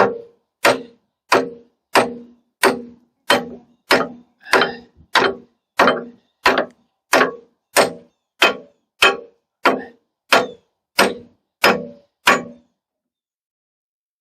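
Steady hammer blows on steel, about one and a half a second, each with a short metallic ring, stopping abruptly about twelve and a half seconds in.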